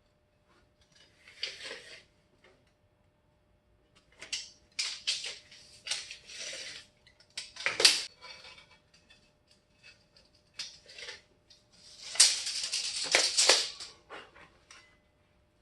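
Intermittent rattling and clinking of metal tools and parts being handled, in a string of short bursts with quiet gaps between them, over a faint steady hum.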